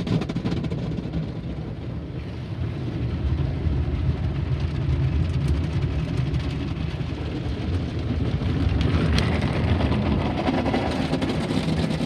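Car wash machinery running around the car, heard from inside it: a steady low rumble, with hissing spray or air growing louder about nine seconds in.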